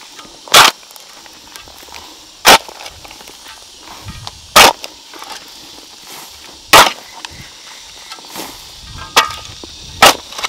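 A digging tool scraping into packed dirt and manure in six short, sharp strokes about two seconds apart, the last two closer together, as a chicken barn floor is cleared.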